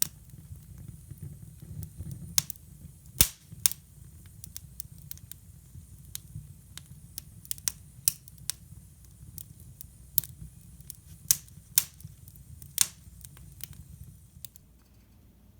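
Wood fire in a hybrid fireplace crackling and popping: irregular sharp snaps, a few of them loud, over a steady low rumble of the burning fire.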